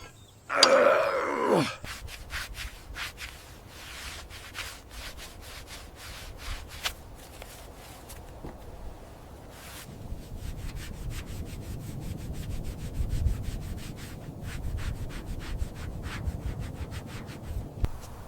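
Rubbing and scraping with many sharp clicks and a low rumble. About a second in there is a short, loud sound that falls steeply in pitch.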